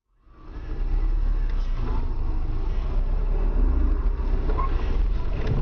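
Steady low rumble of a moving car's engine and road noise, fading in over the first half second.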